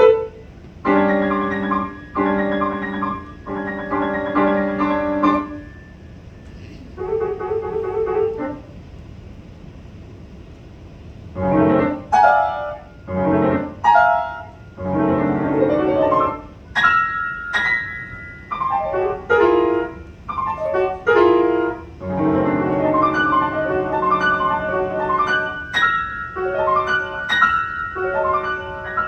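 Solo piano playing a classical piece: short groups of chords with gaps between them, a near-quiet pause about a third of the way in, then quick, detached chords and high notes.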